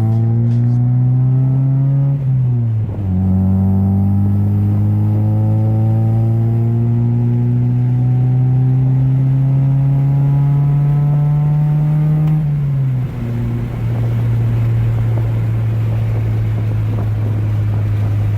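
Honda Del Sol's four-cylinder engine with a newly fitted muffler, accelerating through the gears, heard from inside the car with the windows down. The engine pitch climbs steadily, drops with an upshift about two and a half seconds in and again about thirteen seconds in, then holds steady.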